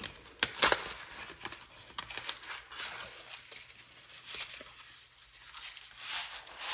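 Box of chickpea and lentil spaghetti being opened and handled: tearing and crinkling of the packaging, with a couple of sharp clicks just under a second in.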